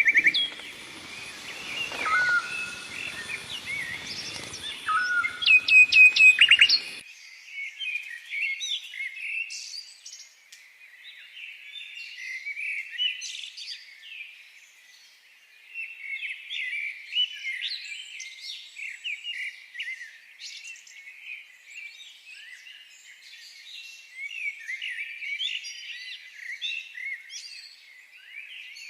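A dense chorus of many small birds chirping and singing, with a few louder calls about six seconds in. After that the sound turns thin, with no low end.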